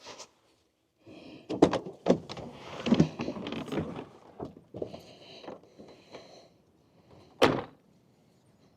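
A door being opened and shut: a run of knocks and rattles, ending in one loud sharp thunk about seven and a half seconds in.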